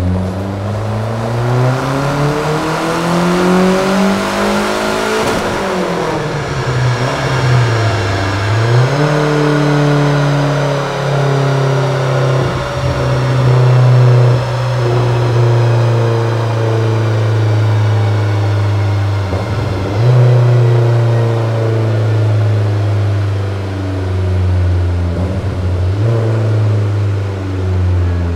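Fiat Tempra Turbo's 2.0 turbocharged four-cylinder engine running on a chassis dynamometer. It revs up under load, rising in pitch for about five seconds, then drops sharply. After that it holds a steady, slowly falling pitch.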